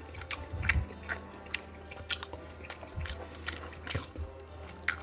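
A person chewing a mouthful of teriyaki chicken, with irregular wet mouth clicks and smacks and a few soft low thumps.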